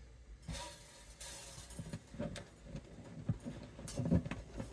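Rustling of string packaging and scattered light clicks and knocks as guitar strings and small tools are handled on a workbench.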